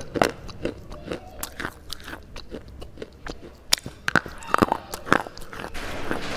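A dry red slate bar bitten and crunched between the teeth: a rapid, irregular run of sharp cracks and crunches, a few much louder snaps in the second half.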